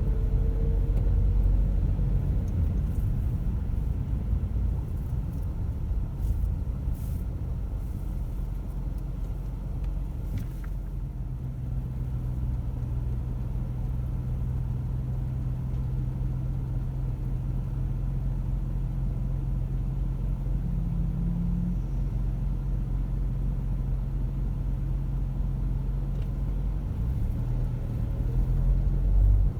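Car engine and road noise while driving: a steady low hum.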